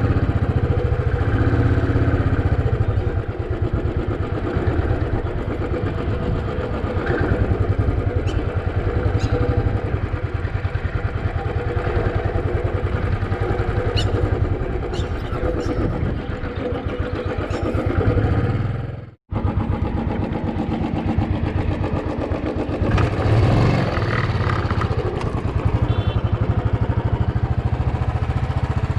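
Royal Enfield Bullet 350 single-cylinder engine running steadily as the motorcycle is ridden. The sound cuts out abruptly for a moment about two-thirds of the way through, then resumes.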